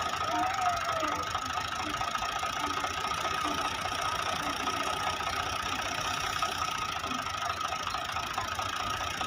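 Fiat 480 tractor's diesel engine running steadily.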